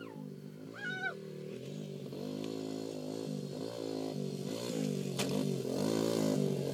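Dirt bike engine running with the throttle worked on and off, its pitch rising and falling repeatedly, growing louder as it comes closer.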